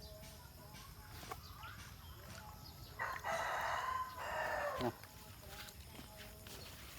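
A rooster crowing once, about two seconds long, starting about three seconds in and ending on a falling note.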